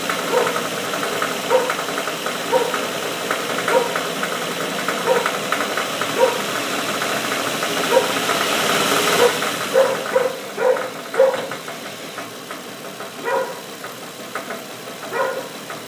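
Nissan VQ35DE 3.5-litre V6 running with a rapid ticking knock, which the owner traces to the number 3 cylinder. A short pitched chirp repeats about once a second over the engine. The engine noise swells up to about nine seconds in, then gets quieter after about eleven seconds.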